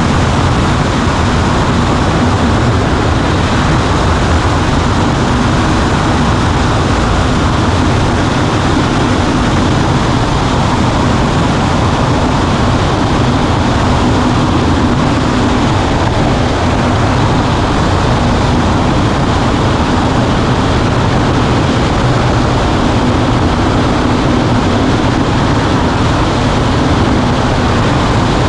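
Cessna 140A's single piston engine and propeller running steadily, a loud, constant drone with no change in pitch.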